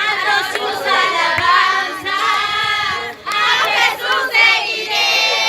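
A group of voices singing a Spanish worship chorus together, unaccompanied by any clear instrument.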